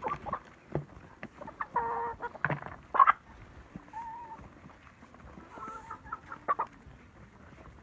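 Hens clucking: a string of short, sharp clucks, with a couple of longer drawn-out calls about two seconds in and again near six seconds.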